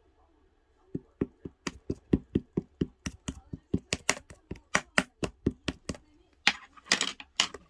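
Mint chocolate ice cream being scooped: a quick run of sharp taps, about four a second, then two longer scraping sounds near the end.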